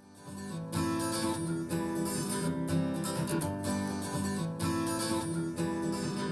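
Acoustic guitar strumming chords in a pop song's intro, played back through a small studio monitor and recorded in the room. It fades in out of silence over about the first second, then strums steadily.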